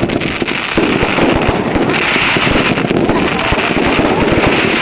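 Fireworks going off in rapid succession: a dense, continuous run of crackling pops and bangs with a fizzing hiss.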